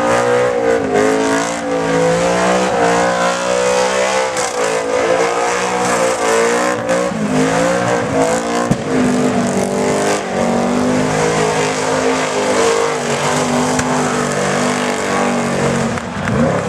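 Supercharged car engine held at high revs through a burnout, the rear tyres spinning. The revs waver and dip every few seconds, then settle to a steadier, lower pitch about halfway through.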